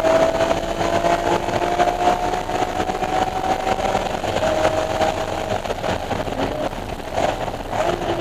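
BMW E46 M3's S54 straight-six engine under load at high revs. Its pitch rises slowly for about four seconds and breaks briefly, like a gear change. It pulls again, then falls to a lower pitch near the end as the revs come down.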